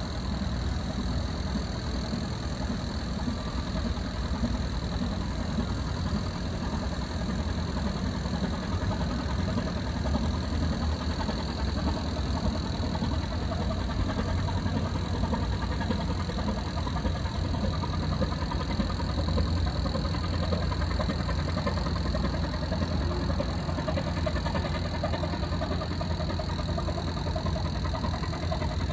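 Ship's diesel engine running steadily: an even low drone with a faint, steady high whine above it.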